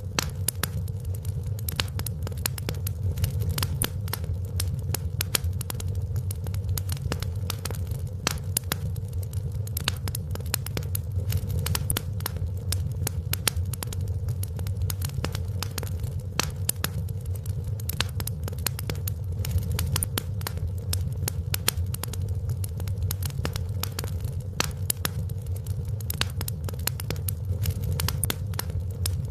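Fireplace fire crackling: a steady stream of sharp pops and snaps, several a second, over a constant low rumble.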